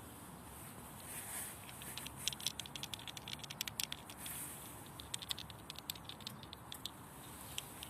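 A squirrel at close range making fast runs of sharp, dry clicks and crackles that go on for several seconds in the middle, with a couple of soft rustles.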